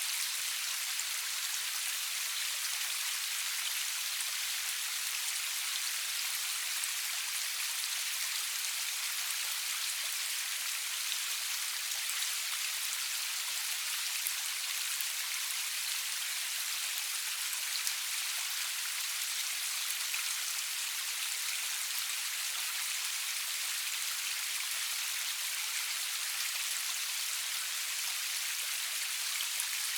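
Steady rainfall with no thunder: an even hiss of drops pattering on a surface, with tiny individual drop ticks.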